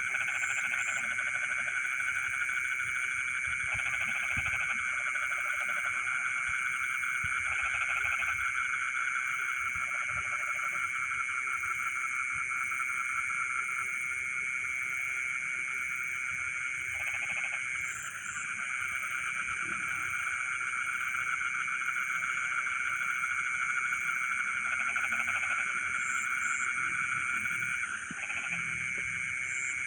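Frogs calling at night in a dense, unbroken chorus, with insects trilling among them. Shorter, lower croaks stand out every few seconds.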